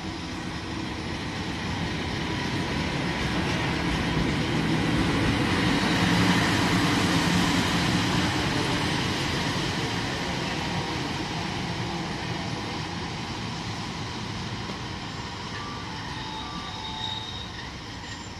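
A train moving along the tracks, its rumble and wheel noise swelling to a peak about six seconds in and then slowly fading.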